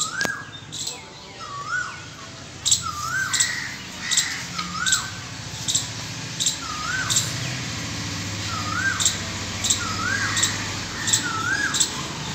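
A bird calling the same short, rising-then-falling note over and over, about once a second, with fainter high chirps in between.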